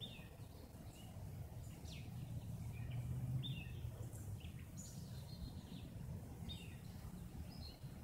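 Birds chirping: short, scattered calls and quick downward-sliding chirps, about a dozen, over a steady low outdoor rumble that swells slightly around the middle.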